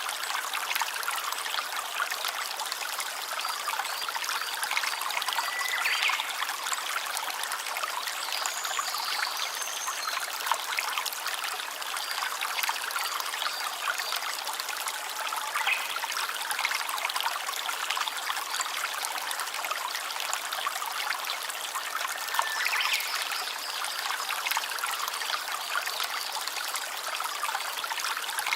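Small stream trickling and babbling over stones in a steady, even flow.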